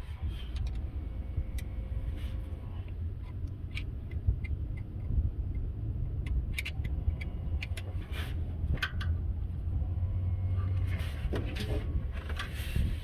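Scattered metallic clinks and taps of hand tools and engine parts as a mechanical fuel pump is being fitted, over a steady low rumble.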